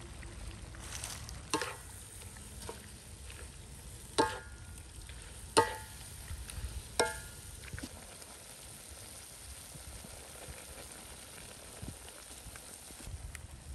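Diced pork sizzling steadily in a steel wok while a spatula stirs it. The spatula strikes the wok four times in the first seven seconds, each clang ringing briefly, and then only the sizzle goes on.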